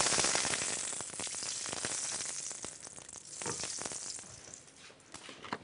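Hawawshi, meat-stuffed bread, frying in hot oil in a pan: loud sizzling with many small crackling spits. It is loudest at the start, swells once in the middle and dies down toward the end.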